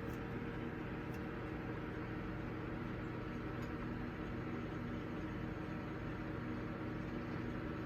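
Microwave oven running while it heats food: a steady hum with a low buzz.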